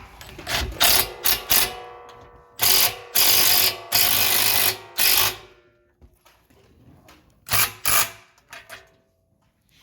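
Power driver running in short bursts to drive screws through an aluminum gate upright into its rail, with a ringing tone in each burst. There are several quick bursts, then three longer runs of about a second each, then two quick bursts near the end.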